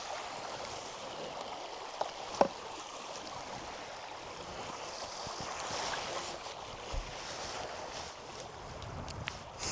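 A river or stream flowing steadily with a constant rushing. A couple of sharp clicks come about two seconds in, and a few fainter knocks follow later.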